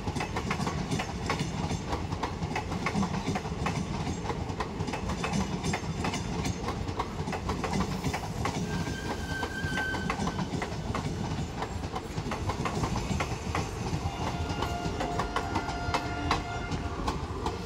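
Passenger express train coaches rolling past, with a steady rumble of wheels on rail and a continuous clickety-clack of wheels over the rail joints. Thin, high squealing tones come in briefly about halfway through and again near the end.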